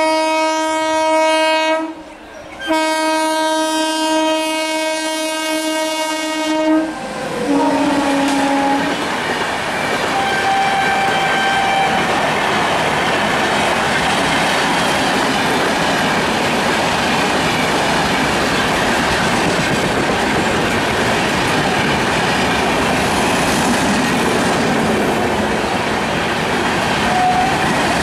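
WAP-7 electric locomotive's horn sounding two long blasts, the first about two seconds and the second about four, with a brief lower note after them. The steady rush of the express train then runs past at speed for the rest of the time.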